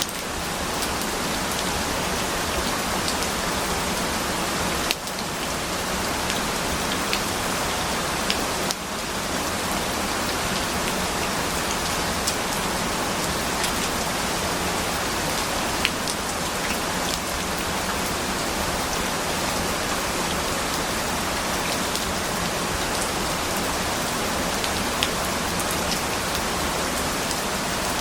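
Steady rain falling, an even hiss with scattered individual drops ticking. The level dips briefly twice, about 5 and 9 seconds in.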